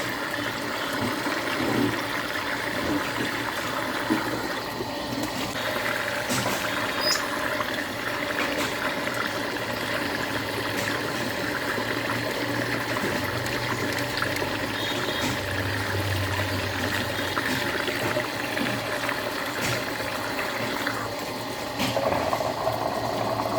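Water swirling and draining down a whirlpool hole: a steady rushing, flushing flow that changes character near the end.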